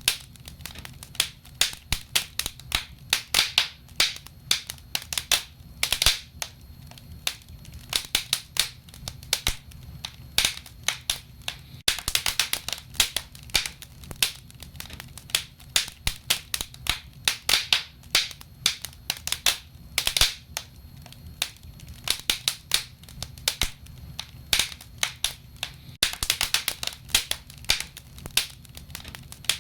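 Wood fire crackling: many irregular sharp pops and snaps from the burning logs, in thicker flurries every few seconds, over a low steady rumble of the flames.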